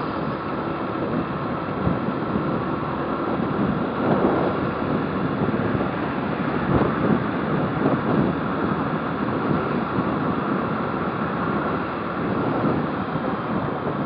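Motorcycle riding at a steady pace: wind rushing over the helmet microphone over the steady running of the engine.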